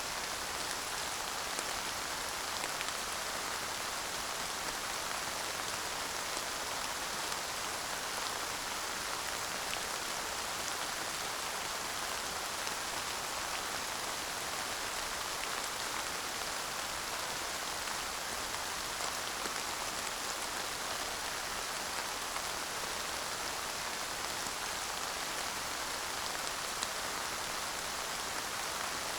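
Steady light rain falling, an even patter with faint scattered drop ticks and no thunder.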